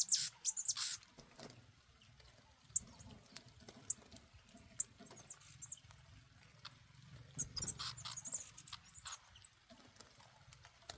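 A caged songbird giving scattered short, high chirps, with a few faint clicks in between.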